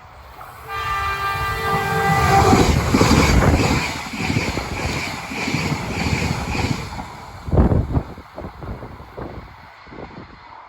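A Yamagata Shinkansen Tsubasa train sounds its horn for about two seconds, then rushes past with an even clatter of wheels over rail joints. A loud thump comes about two-thirds of the way through as it goes by.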